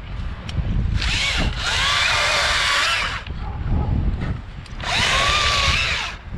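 Battery-powered Stihl MSA 161 T top-handle chainsaw run in three short bursts, its electric motor whine bending in pitch as it bites, with wind rumbling on the microphone throughout.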